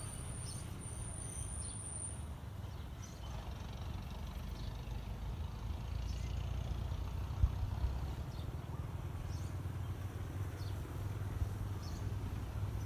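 Steady low outdoor rumble like distant road traffic, with scattered short bird chirps and a brief knock about seven seconds in.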